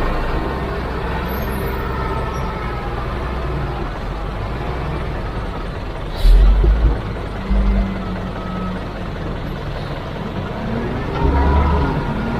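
Diesel engine of a heavy vehicle running steadily, with short deep thuds about six and seven and a half seconds in and again near the end.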